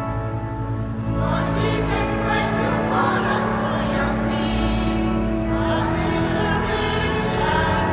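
Church choir singing with organ accompaniment; the organ holds a chord alone at first and the choir comes in about a second in.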